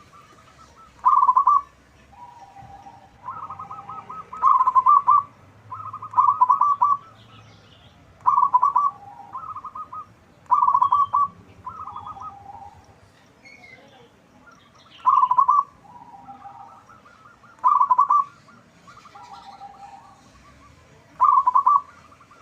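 Zebra dove (perkutut) cooing, a local bird with a big voice kept as a lure call. A loud, rapidly pulsed coo phrase repeats about every two to three seconds, with softer, lower coos in between.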